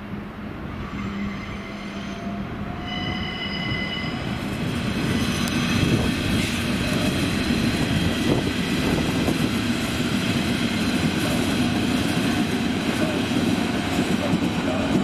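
A train moving through the station, its wheels squealing in several high steady tones during the first few seconds, then the running noise of the train grows louder as it draws near.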